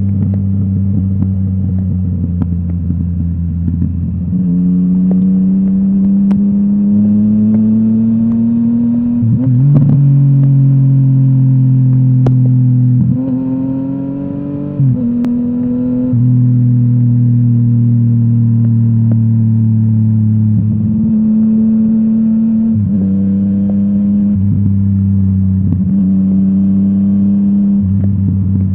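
Yamaha MT-09's three-cylinder engine through a full Akrapovic exhaust, ridden on the road. It pulls up in pitch, then drops sharply at gear changes several times, around 4, 9 and 15 seconds in and again near the end, with stretches of steadier running in between.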